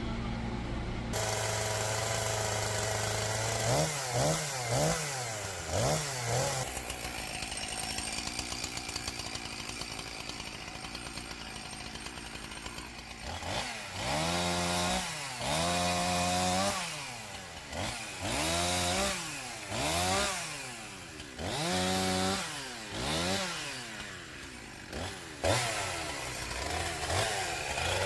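Chainsaw engine running and being revved up and down again and again, its pitch climbing as the throttle opens and dropping back between revs, with a stretch of steadier running in the middle.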